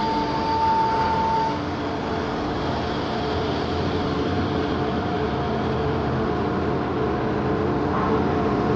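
Two-spindle CNC router (HT-1325P2) running: a steady machine noise with several held tones. A higher whine stops about a second and a half in.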